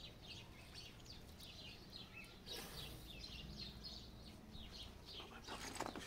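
Small birds chirping over and over, several short, high, falling chirps a second. There is a brief burst of noise about two and a half seconds in and a few knocks near the end.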